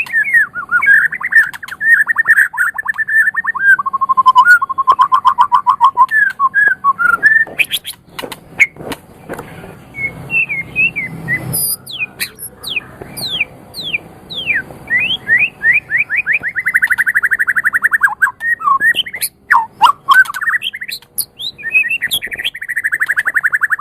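White-rumped shama (murai batu) singing a varied, continuous song: rapid trills and rattles, sharp clicks, and runs of quick down-slurred whistles.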